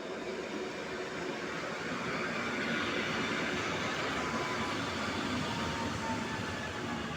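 A train running through a station: a steady rumble that builds to its loudest about three seconds in, with faint tones gliding slowly down in pitch near the end.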